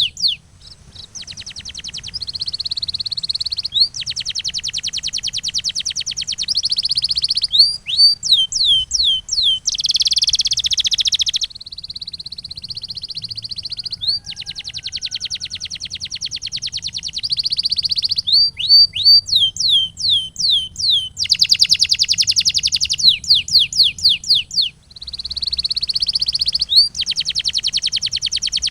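Canary singing a continuous song: long, very fast trills alternate with phrases of repeated falling whistled notes, about four a second, over a low steady hum. The song breaks off briefly about half a second in and again about 25 seconds in.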